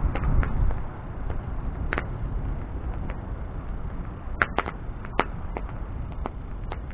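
Wood bonfire burning, with irregular sharp crackles and pops over a low steady rumble of flame, busier in the first second.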